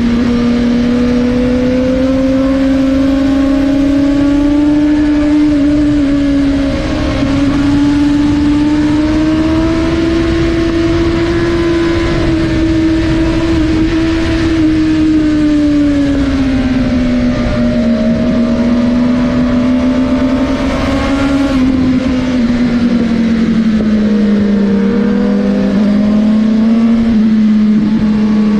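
Suzuki GSX-R1000R's inline-four engine running hard at high revs, its note rising and falling slowly as the throttle and gears change, with a steady rush of wind noise.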